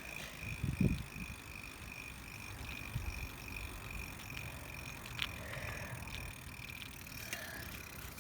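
Bicycle riding along, with low rumble from the tyres and the ride through a handheld phone's microphone and a thin steady high whine throughout. A low thump comes about a second in, and a few faint clicks follow.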